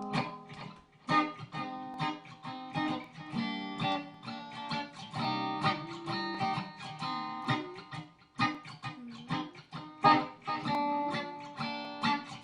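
A plucked string instrument picks a rhythmic instrumental intro, several notes ringing together, with a brief break about eight seconds in.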